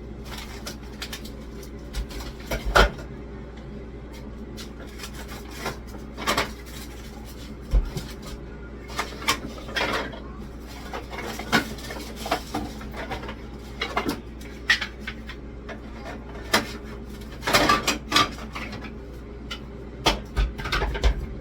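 Frozen food packages and containers being taken out of a freezer and moved around: irregular knocks and clatters, a few sharper ones, over a steady low hum.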